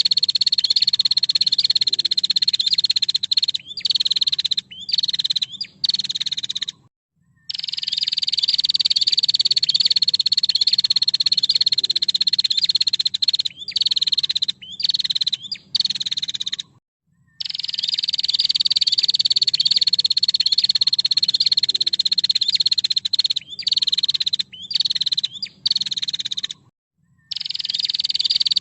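Female prenjak (a prinia) calling a rapid, high-pitched buzzing trill that drops slightly in pitch. Long runs alternate with a few short bursts and a brief pause, and the pattern repeats about every ten seconds, as a looped masteran recording does.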